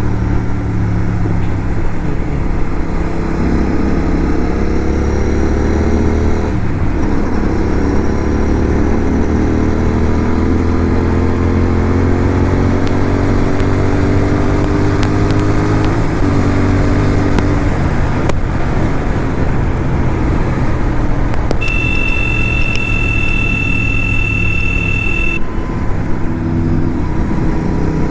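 Motorcycle riding on the road, its engine note rising again and again as it accelerates through the gears, with a heavy low rush under it. Near the end a high, steady beep sounds for about four seconds.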